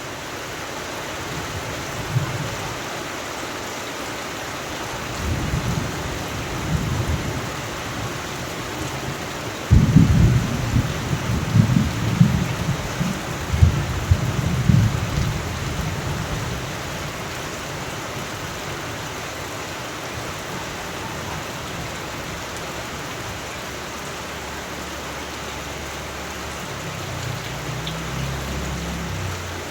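Steady rain with thunder. Distant low rumbles come in the first several seconds, a sudden loud clap about ten seconds in rolls on for about six seconds, and another low rumble comes near the end.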